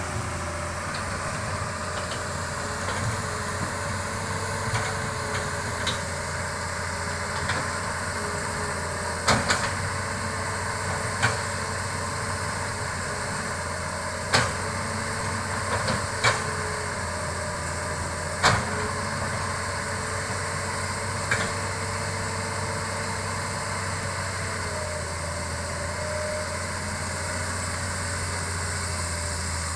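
Hitachi excavator's diesel engine running steadily, with several sharp knocks from the machine's work, the loudest about halfway through.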